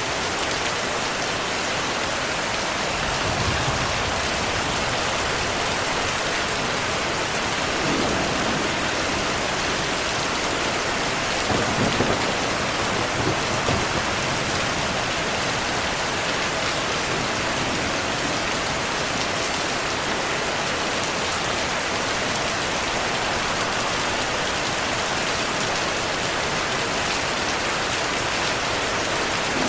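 Heavy, steady rain with distant thunder rumbling low a few times, the strongest about twelve seconds in.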